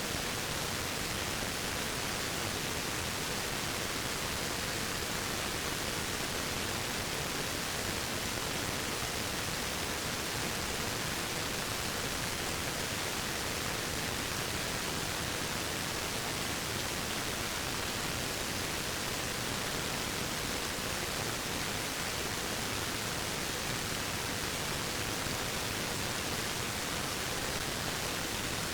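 Waterfall rushing: a steady, unbroken hiss of falling water with no changes.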